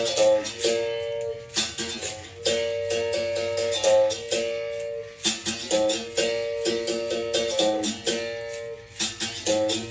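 Berimbau being played: its steel string is struck in a repeating rhythmic phrase, and each ringing note jumps between two close pitches. Sharp strikes carry a light rattle over the notes.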